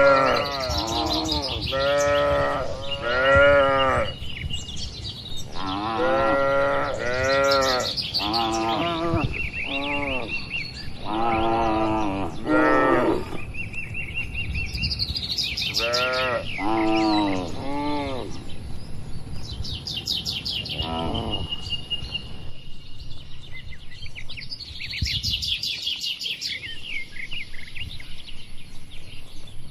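Cattle mooing in clusters of short calls that rise and fall in pitch, most of them in the first twenty seconds, with birds chirping and a thin steady high whine behind.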